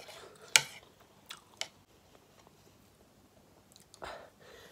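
Close-miked eating sounds of a person chewing food: wet mouth clicks, the loudest about half a second in and two smaller ones around a second and a half, with a short rustle near the end.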